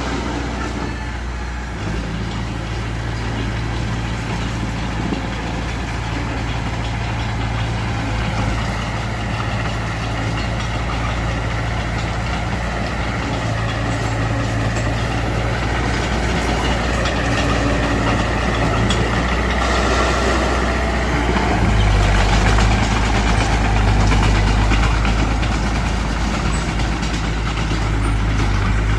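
Diesel engine of heavy earthmoving machinery running steadily with a low hum. It grows louder about three quarters of the way through.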